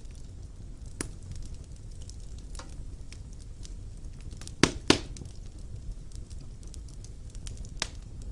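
Wood fire burning in a stone fireplace: a steady low rumble of flame with scattered crackles and sharp pops, the loudest two in quick succession about four and a half seconds in.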